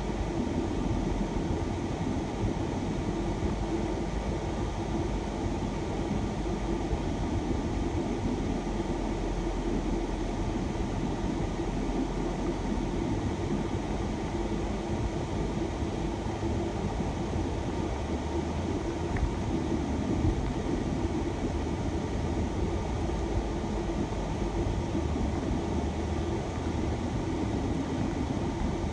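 Steady engine and road rumble inside a moving shuttle van.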